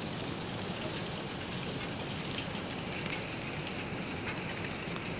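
Heavy rain pouring down, a steady dense hiss with scattered drop ticks.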